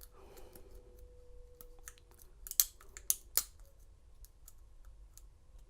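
Small metal clicks and ticks from a lock pick and tension wrench working the pins of a Master Lock 187 padlock: a run of faint ticks, with three sharper clicks just past the middle.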